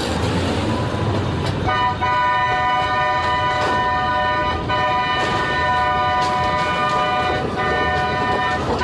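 Train horn blowing one long, steady multi-note chord over the rumble of the moving train. It starts about two seconds in and cuts off just before the end, with a few sharp clicks under it.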